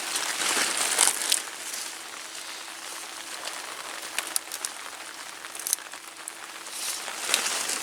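Rain falling on an umbrella held over the microphone, a steady hiss with scattered drips and ticks, and louder handling noise in the first second or so and again near the end.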